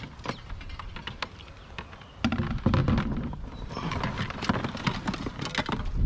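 Clatter of junk being handled and moved: a run of clicks and knocks, busier and louder from about two seconds in, over a low rumble of wind on the microphone.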